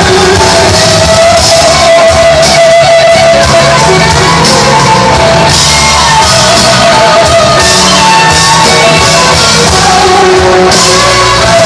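Live rock band playing an instrumental passage: an electric guitar lead holds long sustained, slightly bending notes over bass and drums, with cymbal crashes about halfway through and near the end.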